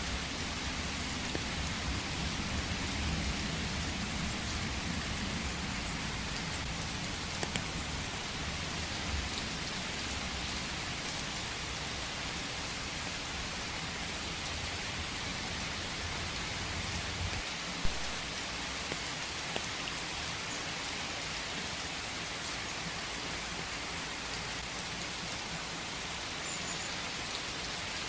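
Steady rain falling in a forest, an even hiss of many drops. A low rumble runs under it through the first half and fades out, and a single sharp drop tick stands out about 18 seconds in.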